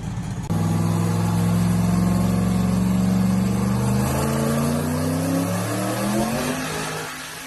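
Chevrolet SS sedan's V8 engine under load, cutting in suddenly. It holds a steady pitch for a few seconds, then the revs climb for a couple of seconds before easing off near the end.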